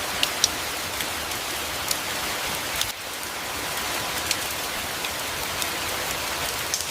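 Steady rain falling, an even hiss of many drops, with occasional louder single drops ticking sharply close by.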